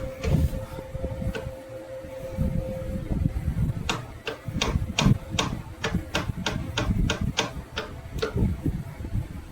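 A run of evenly spaced sharp metallic clicks, about four a second, from a hand tool working on metal, starting about four seconds in and stopping about four seconds later. A faint steady hum comes before it.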